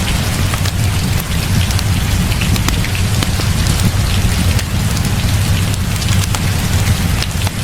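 Heavy rain falling steadily, with a deep low rumble underneath and many scattered sharp ticks and crackles.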